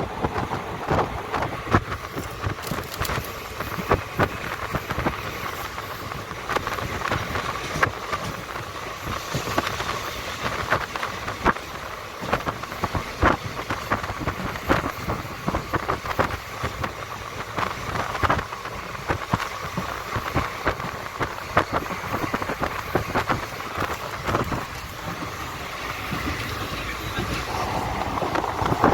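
Train running on the rails: irregular clicks and knocks from the wheels and carriages over a steady rumble, with a faint steady hum throughout.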